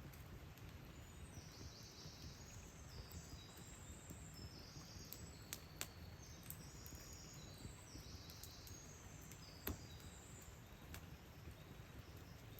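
Faint high-pitched bird chirps in a morning forest, over a low steady rumble. A few sharp clicks stand out, the loudest about ten seconds in.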